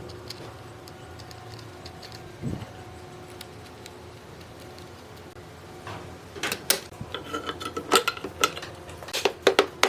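Metal parts and tools clinking and knocking, a run of sharp metallic taps and clanks starting about six seconds in, over a low steady hum.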